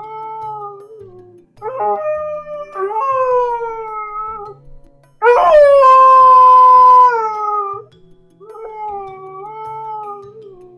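A dog crying in long, drawn-out howling wails, one after another, each held for a second or two with a slight wavering fall in pitch. The loudest and longest wail starts about five seconds in and lasts about two and a half seconds.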